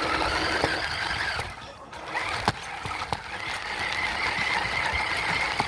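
Radio-controlled truck's motor and gears whining steadily. The whine drops out briefly about a second and a half in, then picks back up with a rise in pitch. A few sharp clicks come through.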